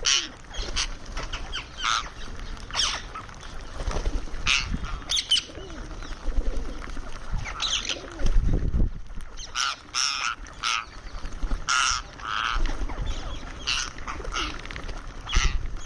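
Indian ringneck parakeet giving short, sharp squawks and chirps at irregular intervals, some in quick pairs.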